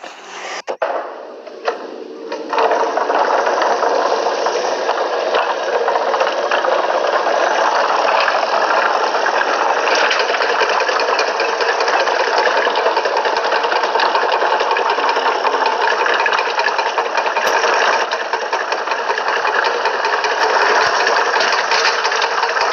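Small engine running steadily with a fast, even rattle. It comes in about two and a half seconds in.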